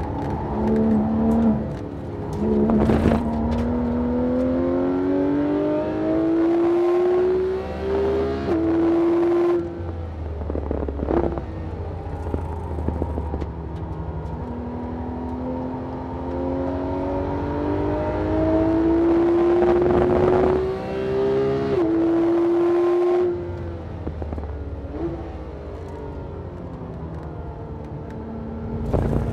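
Porsche 991 GT3's naturally aspirated flat-six heard inside the cabin on track, with two long pulls where the pitch climbs steadily as the car accelerates. Each pull ends in a lift-off with a drop in level and a few sharp blips, and the engine starts pulling again near the end.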